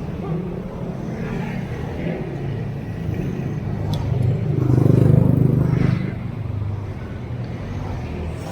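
Road traffic with motor vehicle engines running close by. One vehicle grows louder and passes about five seconds in, and there is a brief click just before.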